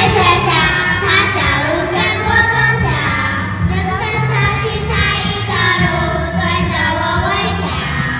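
Children singing a song over amplified backing music with a steady low beat.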